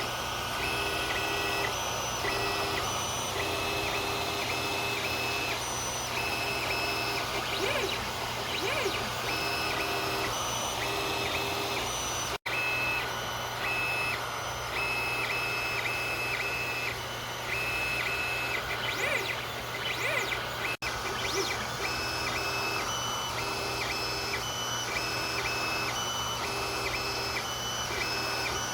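Creality Ender 3 3D printer at work: its stepper motors whine in short steady tones that start, stop and change pitch as the print head moves back and forth, over a steady hum. The sound cuts out for an instant twice.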